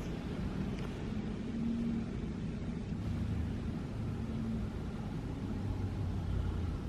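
Strong wind rumbling against the microphone, a steady low roar.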